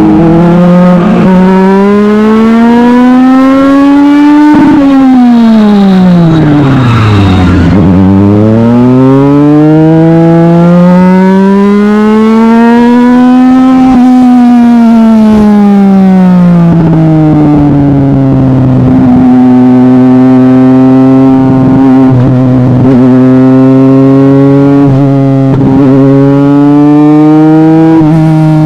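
Legend race car's Yamaha motorcycle engine running hard at racing speed. Its pitch climbs for about four seconds, drops sharply, then rises and falls again in long swells before holding fairly steady for the last ten seconds or so.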